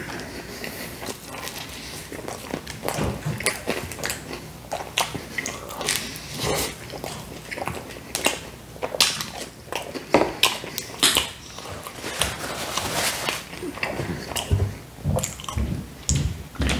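Close-miked chewing and wet mouth sounds of a man eating pizza crust, a dense run of irregular smacks and clicks. Near the end come a few low gulps as he drinks from a soda can.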